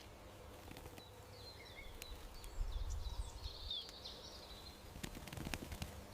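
Outdoor garden ambience with small songbirds chirping and twittering faintly over a low background rumble, and a few sharp clicks near the end.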